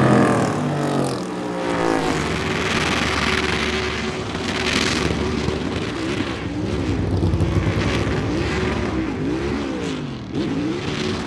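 NASCAR Cup Series stock cars' V8 engines on track: one car goes by at the start with its engine pitch dropping steeply. From about six seconds in, engine pitch rises and falls again and again as cars rev up and come off the throttle.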